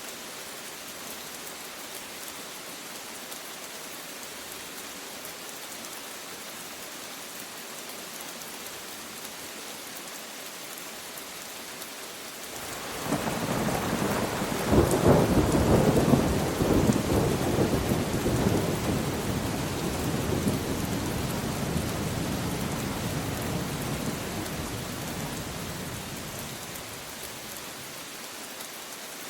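Steady rain falling, with a long roll of thunder that swells up about halfway through, peaks within a few seconds, then rumbles on and slowly fades over some ten seconds.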